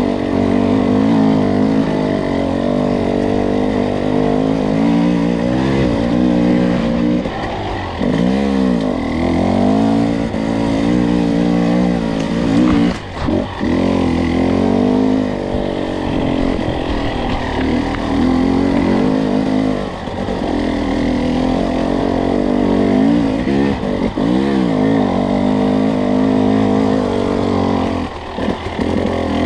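Two-stroke enduro dirt bike engine pulling at fairly steady low revs, with several brief drops and rises in pitch as the throttle is rolled off and back on.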